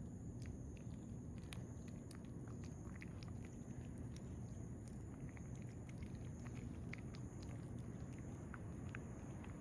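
Cats chewing wet cat food: many small, irregular clicks and smacks over a steady low background noise.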